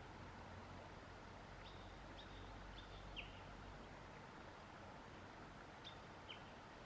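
A bird giving short, sharp high call notes: four in quick succession about two seconds in and two more near the end, faint over a steady quiet background hiss.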